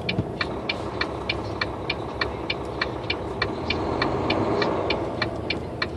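Truck engine running at low speed, heard from inside the cab, with a turn signal clicking steadily at about three clicks a second.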